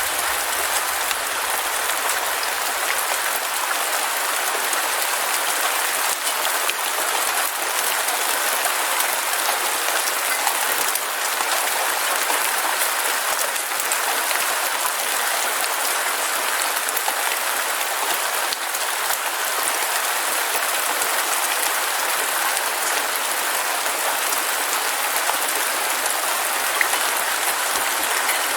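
Heavy rain falling steadily: a dense, even hiss of rain on surfaces, with the patter of single drops through it.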